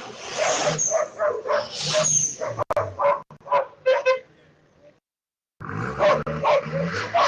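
A dog barking repeatedly, about three short barks a second, with the sound cutting out completely for about half a second a little after the middle.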